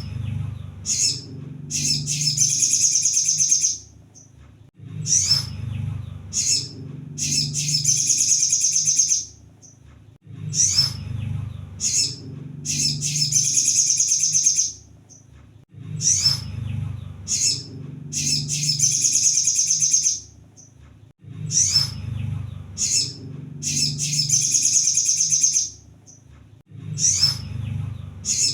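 Sunbird (kolibri sogon) song: a phrase of a few short, high chirps running into a rapid, high trill of about two seconds, repeated about every five and a half seconds.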